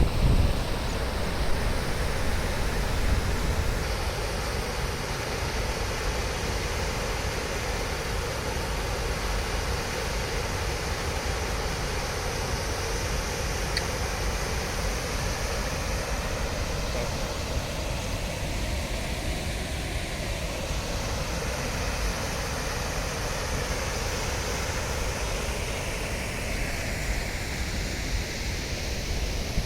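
Wind blowing across the microphone outdoors: a steady rushing noise with constant low buffeting.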